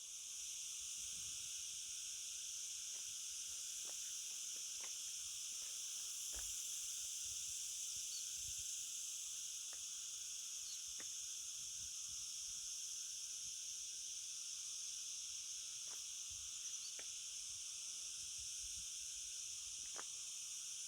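A steady, high-pitched chorus of insects in open countryside, with a few faint short chirps over it.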